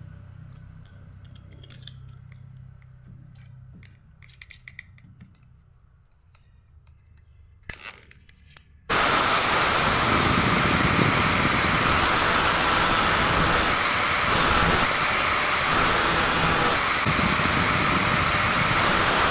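Faint clicks of handling, then an angle grinder switched on about halfway through, running with a loud, steady noise.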